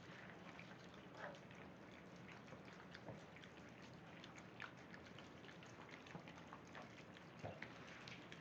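Near silence with faint, scattered small clicks and ticks from small dogs over a low room hiss.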